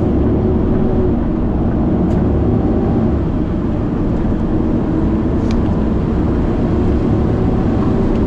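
Big truck's diesel engine and road noise, a steady low drone with a held hum.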